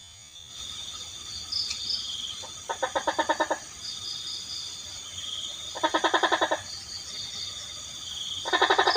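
Night insects trilling steadily, with a frog calling three times, each call a quick rattling series of pulses lasting under a second, about three seconds apart.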